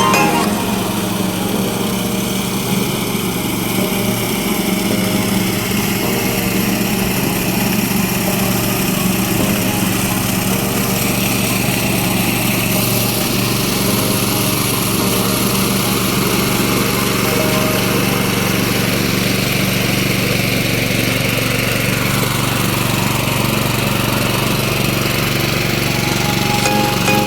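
Hand tractor's engine running steadily at a constant pace.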